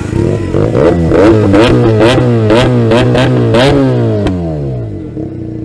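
Benelli TNT300's parallel-twin engine through a loud aftermarket exhaust, idling and then blipped in a rapid series of revs with sharp pops, before dropping back to idle.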